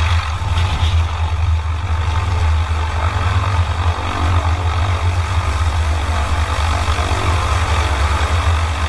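Military helicopter running steadily: a constant deep drone with a hiss of turbine and rotor noise over it.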